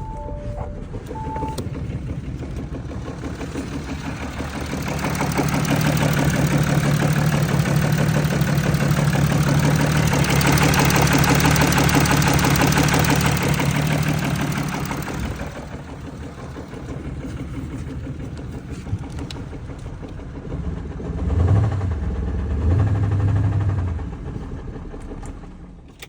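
Audi Q7 3.0 TDI V6 diesel engine (CRTC) running. It is brought up to raised revs and held steady for about ten seconds, then drops back to idle, with two short revs near the end. A few short electronic beeps sound at the very start.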